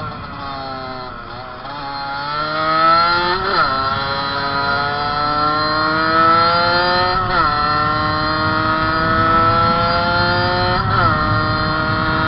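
Fantic 50's small two-stroke motorcycle engine at full throttle, its revs climbing steadily through the gears and dropping sharply at three upshifts, about every three and a half seconds.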